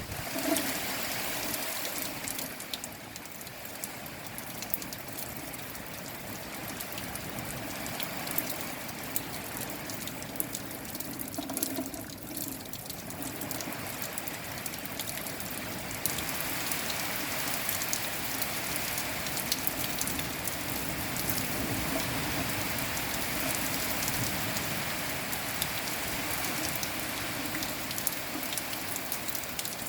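Steady rain falling, with many separate drops striking close by throughout.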